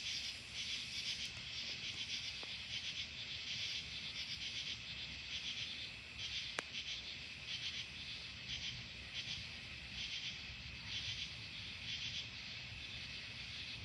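Night insect chorus of crickets, a steady high pulsing trill that keeps repeating, over a low rumbling haze, with one sharp click about halfway through.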